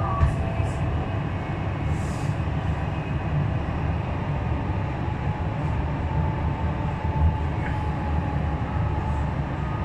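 Metro train running at speed, heard from inside the carriage: a steady low rumble with a faint even whine, and two brief knocks, one near the start and one about seven seconds in.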